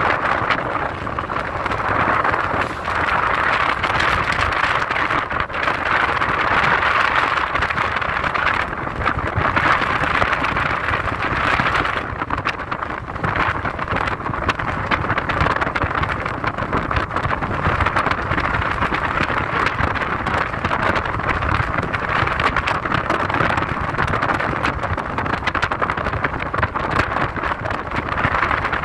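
A car driving steadily, with continuous tyre and road noise over a low rumble.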